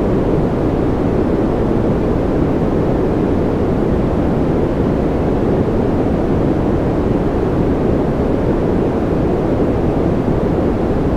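Steady, unchanging generated noise played as a sleep sound: a constant deep hiss with most of its weight in the low and middle range, duller than flat white noise. It has no breaks or changes.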